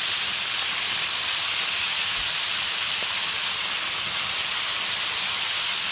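Turkey breasts sizzling steadily as they fry in hot oil in a pan.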